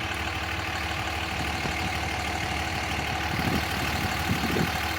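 A vehicle engine idling steadily: a low, even rumble with a faint steady hum over it.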